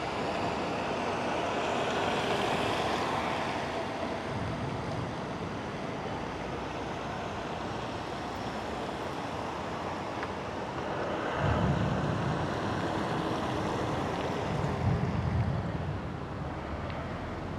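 Severe-storm wind blowing hard with heavy rain, a steady rush of noise; two strong gusts buffet the microphone with a low rumble about eleven and fifteen seconds in.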